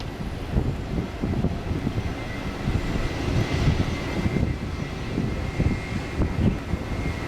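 Airliner engines running at taxi power, a steady high whine over a rushing hiss that swells in the middle, with wind buffeting the microphone.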